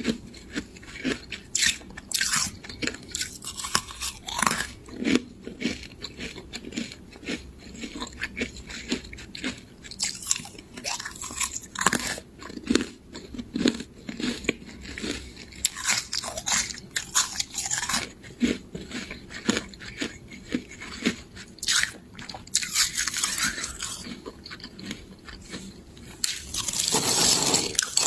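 Close-miked biting and chewing of freezer frost: a steady run of sharp, crisp crunches, rising near the end into a louder, continuous stretch of crunching.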